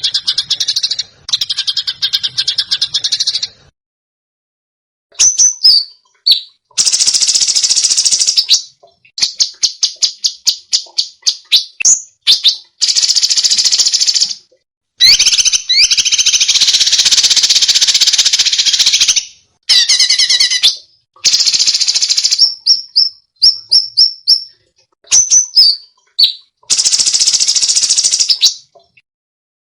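Songbird masteran recording of harsh, high-pitched song phrases. Dense rasping buzzes alternate with runs of rapid repeated notes (about four to five a second) and quick sweeping whistles, each phrase cut off cleanly by a short silent gap. These are the 'tembakan' and 'besetan' phrases played to train competition songbirds.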